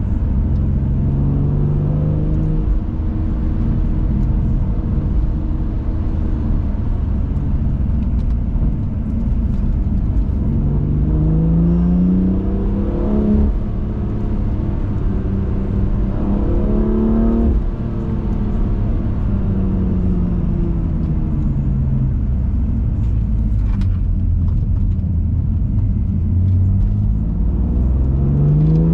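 BMW M2 Competition's twin-turbo straight-six pulling hard through the gears on a winding road: the engine note climbs several times, each climb broken off at a shift or a lift, and it falls away as the car slows about two-thirds of the way through. A steady road and wind rumble runs underneath.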